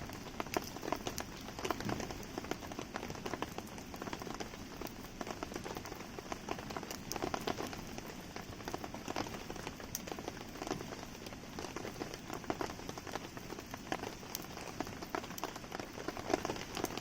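Steady rain falling on surfaces, thick with small sharp drop ticks, over a wood campfire crackling.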